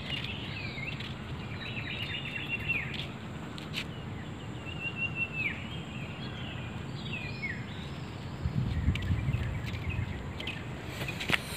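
Birds chirping and calling, with strings of quick notes and short falling calls, over steady outdoor background noise. A low rumble comes in for a couple of seconds about three-quarters of the way through.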